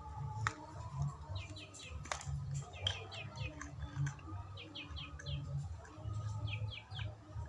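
A small bird chirping in quick runs of three or four high, falling notes, four runs in all, over a low rumble.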